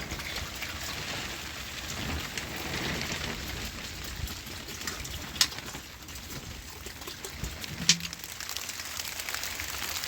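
Rain falling: a steady hiss of rain with many scattered drips, and two louder sharp taps, about halfway through and again about three-quarters of the way in.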